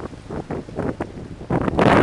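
Gusty wind buffeting the microphone in uneven pulses, with a sudden, much stronger gust about one and a half seconds in.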